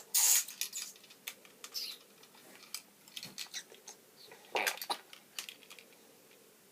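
Plastic Lego pieces clicking and rattling as a small model is handled and reconfigured: a scatter of light, irregular clicks, with a louder clack right at the start.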